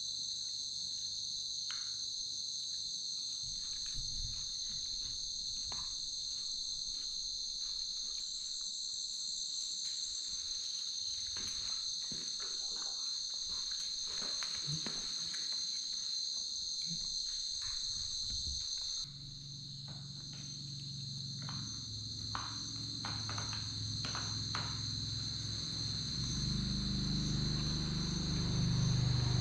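Steady chorus of crickets trilling, with scattered faint clicks. About two-thirds of the way in a low hum comes in and grows louder near the end.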